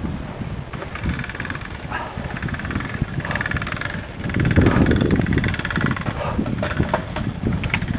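Bicycles on a road climb: a low rumble of riding with rapid fine ticking and scattered clicks from the bikes, growing louder about halfway through.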